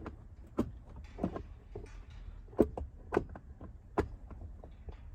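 Irregular knocks and clicks of hard plastic and metal parts as a rear seatbelt retractor is forced into place in a car's rear seat area. The loudest knocks come about two and a half and four seconds in.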